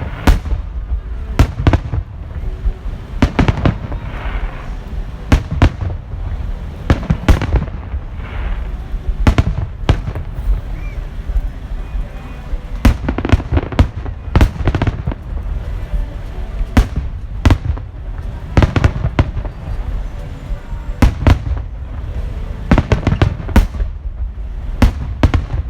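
Fireworks display: shells bursting in a long, irregular series of loud bangs, often several in quick succession.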